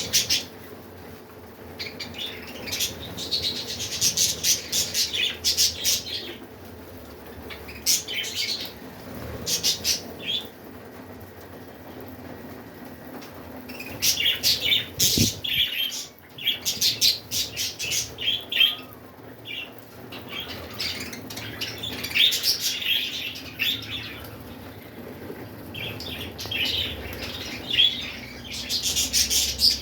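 A flock of budgerigars chirping and chattering in bursts of rapid high notes, with a brief low thump about halfway through.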